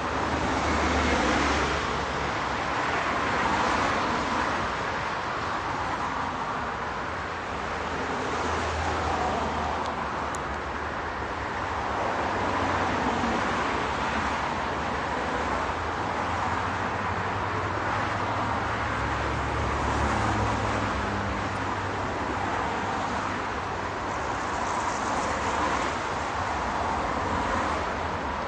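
Diesel locomotive (TEM18DM) running with a freight train: a low engine drone that swells and eases, under a steady rushing noise of the train and wind.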